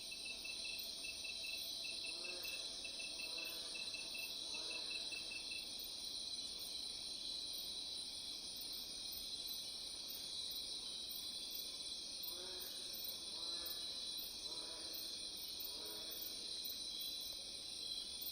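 Steady insect chorus, with a cricket's rapid pulsed chirping in the first few seconds. Twice, three short pitched calls from another animal sound over it, one group early and one group later.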